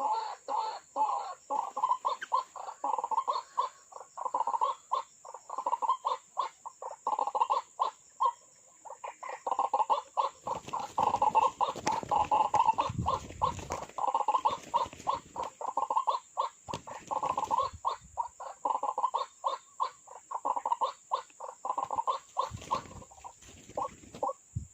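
Birds calling in a rapid series of short repeated notes, several a second, over a steady high-pitched tone.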